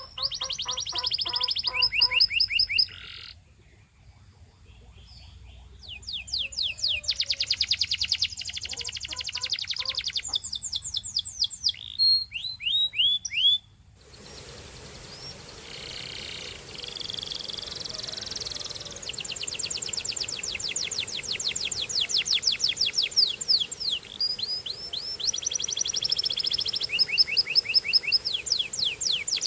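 Domestic canary singing: rolling trills of rapid repeated notes in phrases separated by short pauses, with a longer pause a few seconds in. About halfway through, a steady background hiss comes in under the song.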